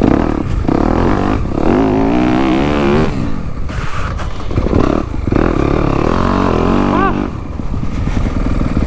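Dirt bike engine revving hard as it is ridden, the pitch climbing and falling with brief drops where the throttle is shut off several times, over a heavy rumble and wind noise.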